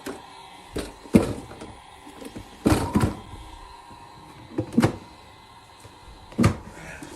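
Hard plastic knocks and clacks from a toy play fridge being handled, about five sharp strikes spaced one to two seconds apart.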